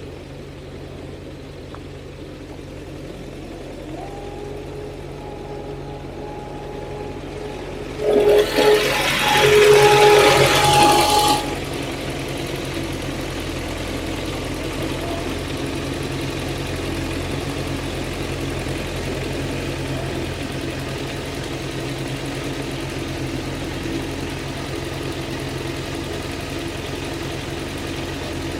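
An engine running steadily. About eight seconds in, a loud rushing hiss lasts some three seconds, and after it the engine runs on louder and steady.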